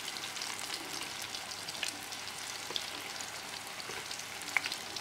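Tofu and eggplant pieces deep-frying in a wok of hot oil: a steady sizzle full of fine crackles. A few sharp clicks stand out, the loudest near the end.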